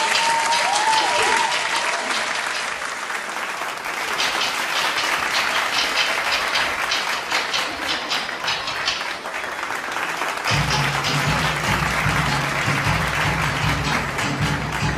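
Audience applauding; about ten seconds in, music with a low bass line starts under the applause.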